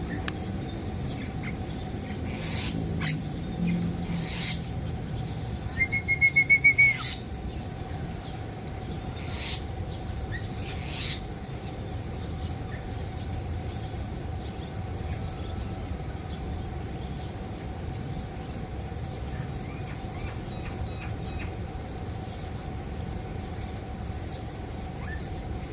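Caged songbirds calling in an aviary. About six seconds in comes a rapid run of about eight short, evenly spaced notes, the loudest sound. A few scattered single chirps and clicks follow, over a steady low background hum.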